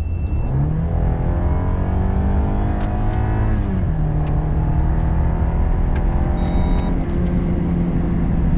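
A 2024 BMW 318i's 2.0-litre turbocharged four-cylinder petrol engine accelerating hard under full throttle, in a 60–100 km/h run. The pitch climbs steadily, drops sharply at an upshift of the 8-speed ZF automatic about four seconds in, then climbs again. Short electronic beeps sound at the start and about six and a half seconds in.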